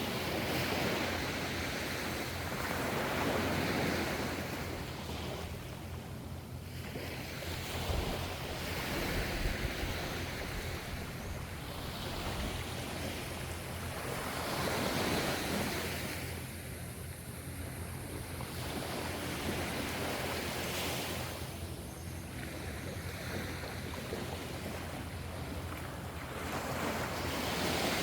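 Ocean waves breaking and washing in. The surf swells and falls away every five or six seconds over a steady low rumble.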